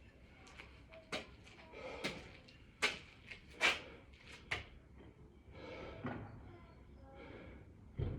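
A man breathing hard after burpees, with short, sharp puffs of breath about once a second, then a low thump near the end.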